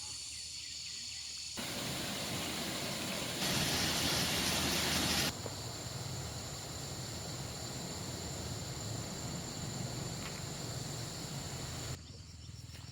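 Outdoor background noise: an even, steady hiss that starts abruptly about one and a half seconds in and jumps louder for about two seconds in the middle. Before it, two steady high-pitched tones are heard.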